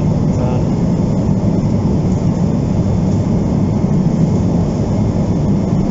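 Steady low rumble of cabin noise inside a Boeing 777-200 airliner in flight: engine and airflow noise, even throughout with no distinct events.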